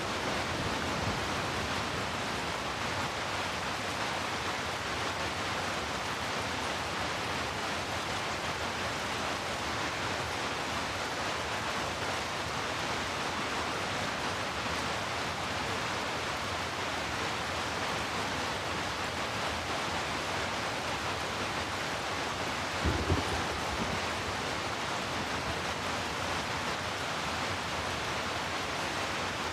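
Steady rain hiss as an even, continuous wash, with one brief low rumble of thunder about three-quarters of the way through.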